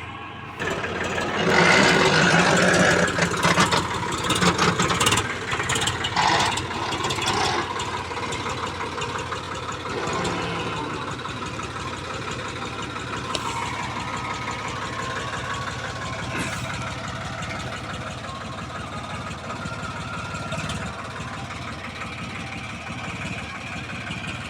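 Tractor engine running: the sound rises abruptly about half a second in and is loudest for the next few seconds, with repeated knocks, then settles to a steady idle.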